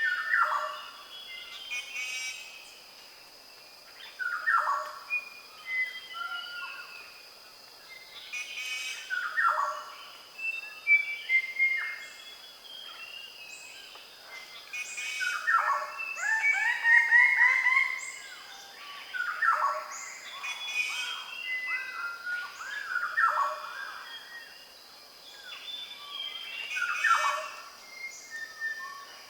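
Dawn chorus with birds of paradise: many birds calling and singing over one another. A loud falling call recurs every few seconds, over a steady high-pitched drone.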